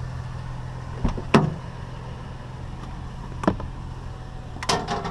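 A vehicle engine idling steadily, with a few sharp knocks and clunks: two close together about a second in, the loudest of all, one near three and a half seconds and a double one near the end.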